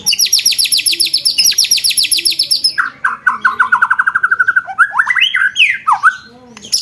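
Songbird singing rapid 'roll tembak' trills: a very fast, high trill of about ten notes a second, then a lower trill, then a few quick whistled sweeps up and down, ending with a sharp click.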